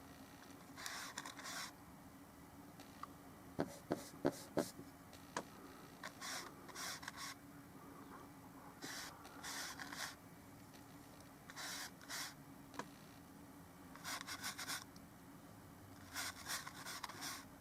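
Paintbrush scrubbing oil paint onto a small canvas panel in short bursts of strokes, several seconds apart, with a quick run of sharp clicks about four seconds in. A steady low hum runs underneath.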